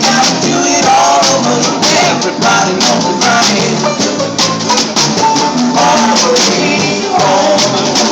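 Live band playing a song: a singer over plucked strings, with hand percussion such as a shaker or tambourine keeping a steady rhythm.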